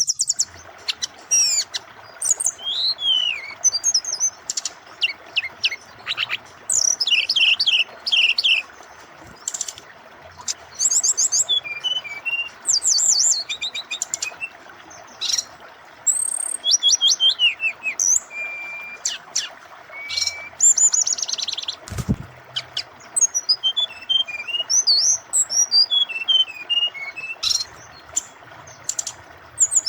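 Brown-chested jungle flycatcher (sikatan rimba dada coklat) singing a long, varied song of quick chirps, rapid trills and a few held whistles, over a steady background of running water. A single low thump comes about two-thirds of the way through.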